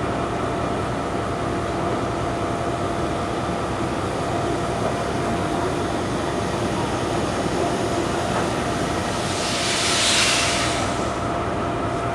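Railway locomotive running steadily, its sound a constant rushing noise with a steady tone through it. About nine and a half seconds in, a loud burst of hiss swells and dies away over roughly a second and a half.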